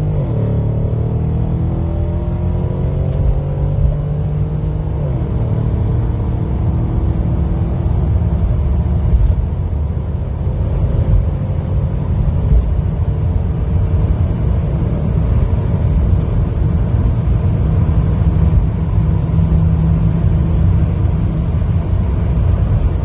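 Stage 2 tuned Mercedes S550's V8 pulling hard under acceleration. Its pitch climbs and falls back at an upshift right at the start and again about five seconds in. After that it settles into a steady, loud rumble.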